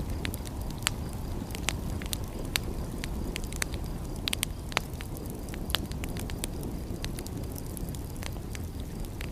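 Wood fire crackling, with sharp irregular pops, a couple a second, over a steady low rumble.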